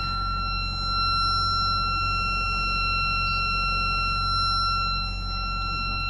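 Yacht engine-panel alarm buzzer sounding one continuous, steady high-pitched tone, the warning for the engine battery, over a steady low rumble.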